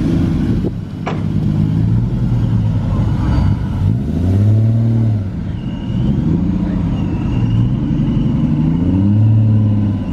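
A car engine revving up and easing back down about three times, its pitch rising and falling smoothly with each rev. There is a single sharp click about a second in.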